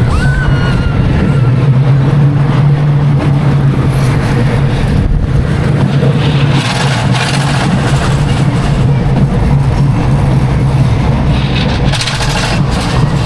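Schwarzkopf Jumbo Jet roller coaster train running along its steel track: a steady loud rumble with a low hum, and a brief high wheel squeal about a second in.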